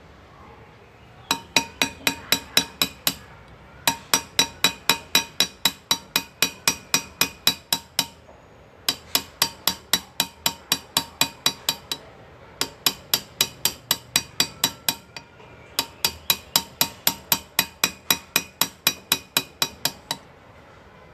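Small engraving hammer tapping a hand graver to cut metal, about six quick ringing metallic taps a second, in five runs of several seconds with short pauses between.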